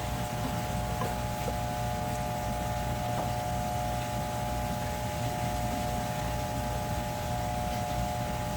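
Steady machine hum with a constant high whine over it, unchanging throughout, with a few faint ticks.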